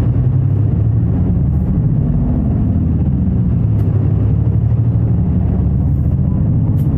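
Route bus's diesel engine running as the bus pulls away from a stop, a steady low drone with road noise. A few faint ticks come near the end.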